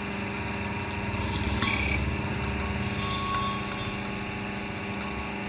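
A small machine humming steadily, with a light clink about a second and a half in and a short hiss about three seconds in.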